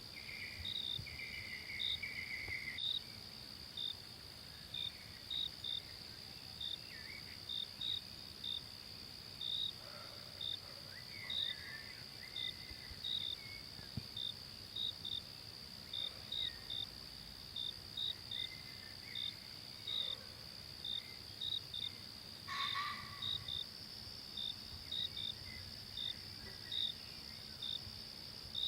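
Forest ambience of insects: a steady high insect drone with short high chirps repeating about twice a second, and faint bird calls scattered through it. A louder short call comes about twenty-two seconds in.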